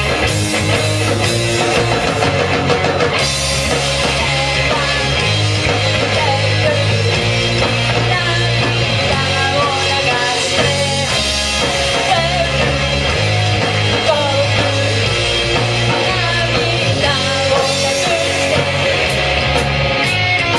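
Rock band playing live, with electric guitar over drum kit and bass.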